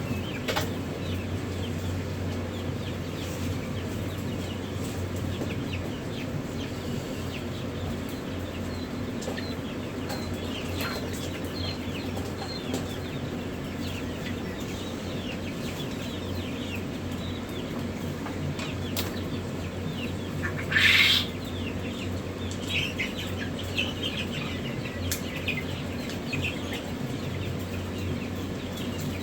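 Many newly hatched chicks peeping, lots of small high falling chirps overlapping, over a steady low hum. One brief louder burst stands out about two-thirds of the way through.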